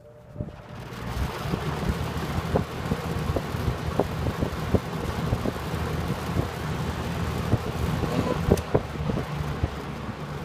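Windsor (Lakewood) C-122 12-inch box fan with a small GE motor, switched to high and spinning up during the first second or so, then running steadily. It gives a rushing air sound over a low motor hum, with the airflow buffeting the microphone in irregular low thumps.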